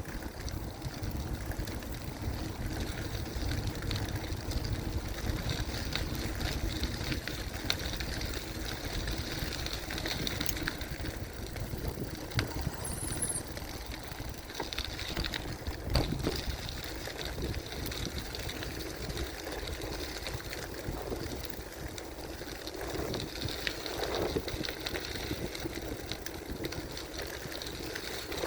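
Gravel bicycle ridden along a forest trail: a steady rumble of tyres and wind on the microphone, with a couple of sharp knocks from bumps midway.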